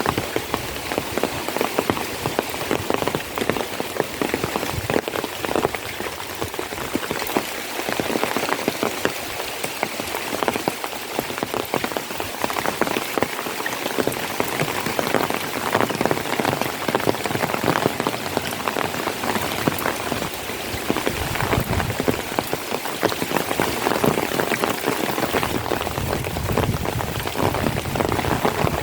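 Steady heavy rain falling on a surface, a dense patter of many drops.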